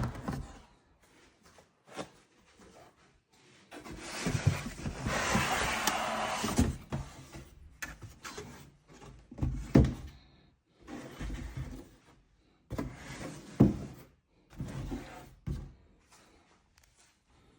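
Handling sounds: a string of separate knocks, thumps and clicks, with a few seconds of even rushing noise about four seconds in.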